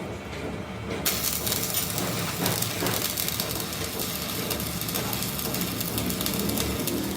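Workshop machine cutting metal on a steel crankshaft: a low machine rumble, joined about a second in by a steady crackling, hissing cutting noise.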